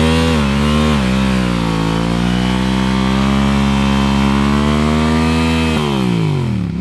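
Car engine revved hard and held at high revs for about five seconds during a burnout, dipping and climbing twice in the first second, then falling off sharply near the end.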